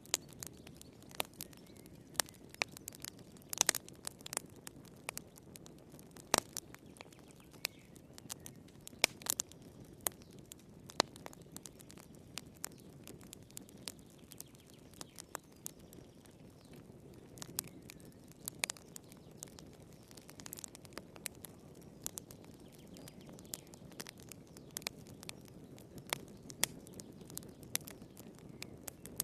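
Wood fire crackling in a fireplace: irregular sharp pops and snaps over a soft, steady low rustle of burning.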